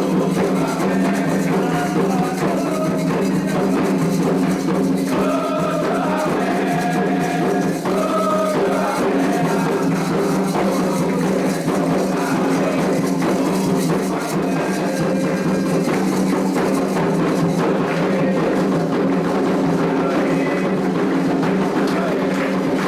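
Candomblé ritual music: atabaque hand drums and other percussion playing a steady rhythm, with voices singing a chant over them.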